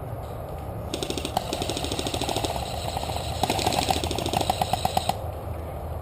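Airsoft gun firing rapidly on full auto, a fast run of repeating shots that starts about a second in and cuts off sharply about four seconds later.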